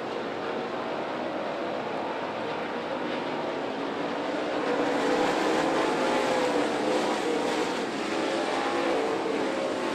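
Dirt late model race cars' V8 engines running at speed around a dirt oval, getting louder about five seconds in as the cars come nearer.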